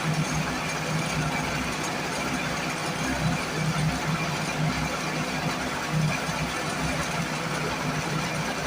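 Small two-stroke portable generator engine running steadily at a held speed. It is putting out only about 109 volts, low for the unit, which the owner puts down to a misset governor linkage.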